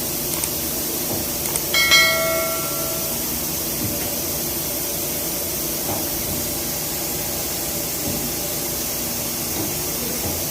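Steady hiss of compressed air escaping around a pneumatic air filter regulator. About two seconds in, a metal part clinks and rings briefly.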